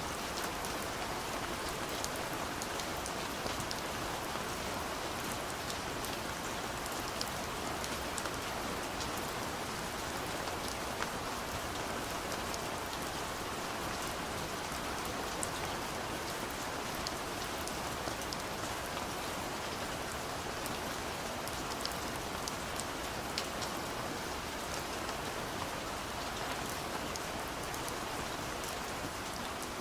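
Steady, gentle rain on a window: an even hiss with many small, sharp drop ticks scattered through it.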